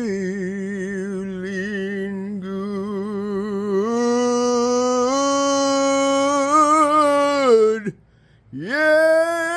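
A solo voice singing unaccompanied, holding long drawn-out notes with vibrato that step up in pitch twice. It breaks off briefly about eight seconds in, then takes up another held note.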